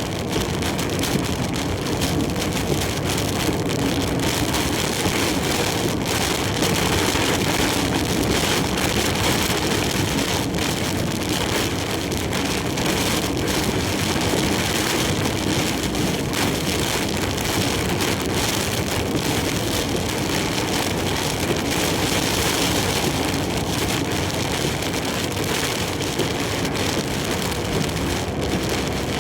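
Heavy typhoon rain and wind beating on a large truck as it drives, a dense, steady patter of raindrops.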